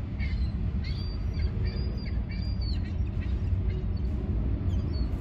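Several short bird chirps over a steady low rumble, the chirps bunched in the first three seconds or so.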